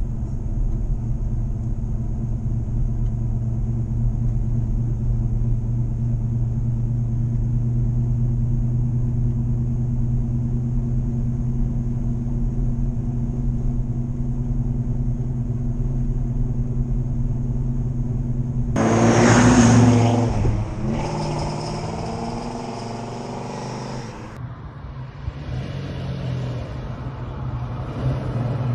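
Oldsmobile 442's V8 running at a steady cruise with road noise, heard from a moving car. About two-thirds through it revs up loudly, then the sound changes suddenly to a quieter car engine running on the road.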